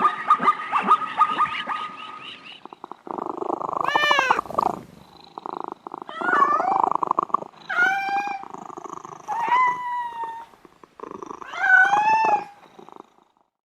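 Domestic cat meowing about five times, long drawn-out calls that rise and fall in pitch, over a low steady rumble. It is preceded by a short stretch of rapid chirping pulses.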